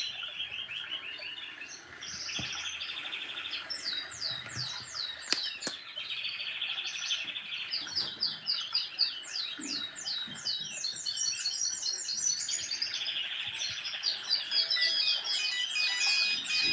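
Birdsong: series of quick, high descending chirps alternating with short buzzy trills, repeating over and over.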